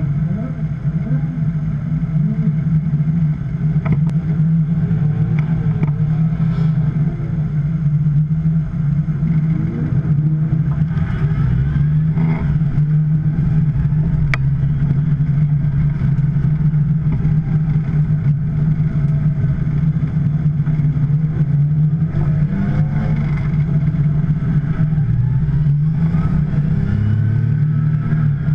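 2010 Porsche 911 Turbo's twin-turbocharged flat-six engine running on a warm-up lap, holding a steady pitch with a few small shifts as the revs change.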